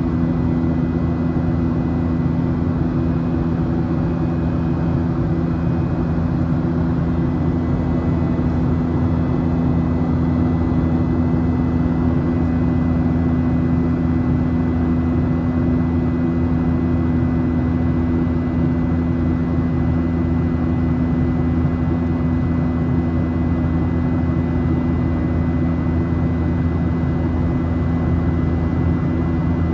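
Steady jet engine and airflow noise heard from a window seat inside a Boeing 737 cabin, with a strong low hum and a faint high whine holding at one pitch.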